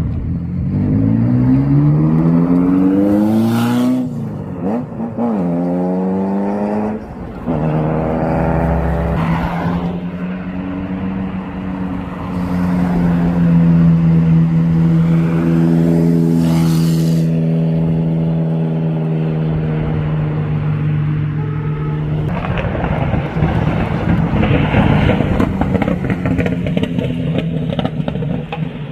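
Ferrari F40's twin-turbo V8 revving in rising sweeps as it pulls away, then running at a steady pitch for about fifteen seconds. In the last several seconds the engine note turns rough and noisy, with no clear pitch.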